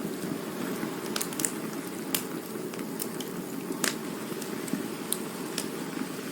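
Campfire burning: a steady low rush of flames with irregular sharp pops and crackles from the wood, about a dozen scattered through.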